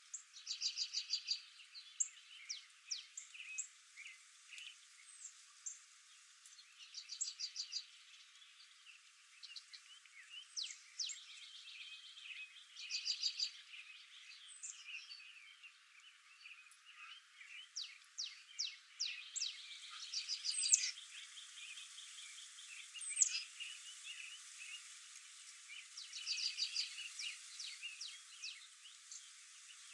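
A chorus of high-pitched chirping and rapid trilling calls, coming in short bursts of about a second every few seconds over a faint steady outdoor hiss.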